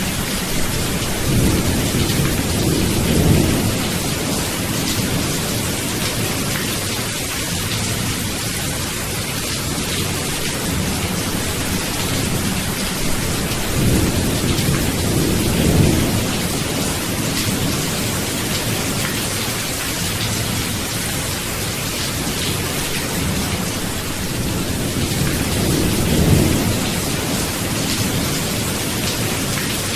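Steady heavy rain hissing, with three low rolls of thunder that swell and fade: near the start, midway, and near the end.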